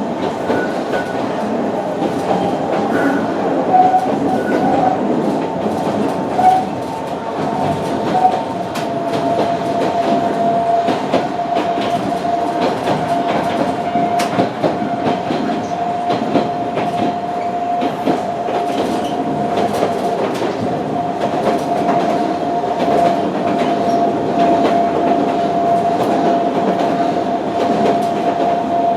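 Sangi Railway Hokusei Line narrow-gauge train running, heard from inside trailer car Sa 138: continuous wheel-on-rail running noise with scattered clicks from the track. About a third of the way in, a steady high whine joins and holds.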